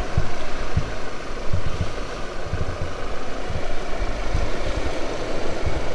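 Truck engine idling steadily, with irregular low thumps.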